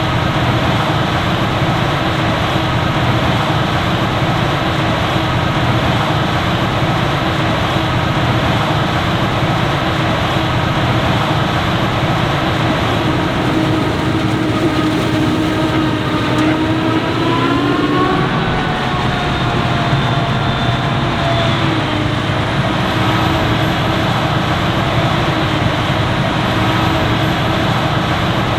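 Heavy machinery running steadily at work: a forage harvester and tractors chopping and hauling maize, with several engine tones over a constant din. A little past halfway one engine's pitch rises and then falls, as a machine speeds up and passes.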